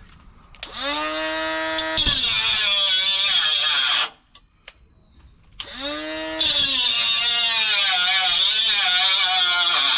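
Angle grinder spinning up and cutting into rusty car body sheet steel, twice: a first cut of about three seconds, a short pause, then a longer cut that runs on. The motor's pitch wavers and dips as the disc bites, under a high screech.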